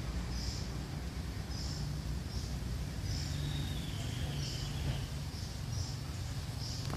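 Small bird giving short high chirps, about one a second, with one faint, slightly falling whistle a little after the middle, over a steady low background rumble.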